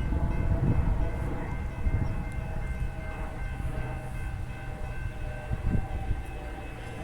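BL class diesel-electric locomotives and their train rumbling through a level crossing, with irregular heavy thumps from the wheels. Several steady high-pitched tones ring throughout.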